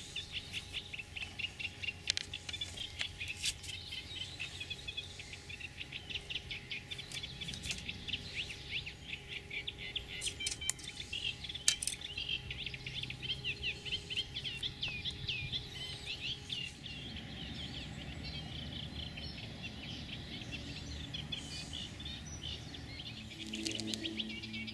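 Birds singing in waterside vegetation, a fast chattering song of rapid repeated notes that runs on without a break, with a few sharp clicks over it.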